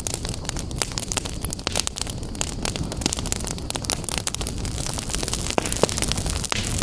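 Wood fire burning in a fireplace, with a steady low rumble of flames and many sharp crackles and pops from the burning logs.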